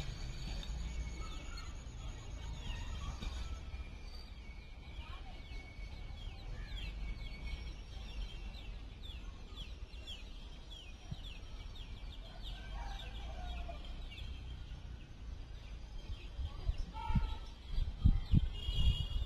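Low steady rumble of a passenger train rolling slowly away, with many quick high chirps over it and a few loud thumps near the end.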